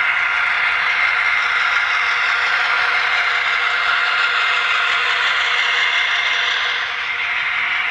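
HO-scale Bowser MLW M630 model diesel locomotive running on the track, its LokSound sound decoder playing diesel engine sound through a small onboard speaker, mixed with the clatter of wheels on the rails. The sound is steady and thin, with no bass, and dips slightly near the end.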